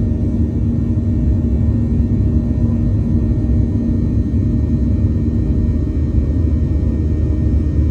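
Boeing jet airliner taking off: a loud, steady, deep rumble from the engines, with a faint steady hum over it.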